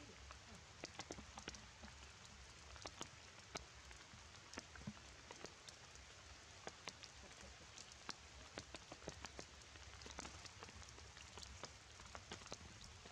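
Rain falling on wet ground, leaves and puddles: a faint steady patter with many separate drops ticking close by.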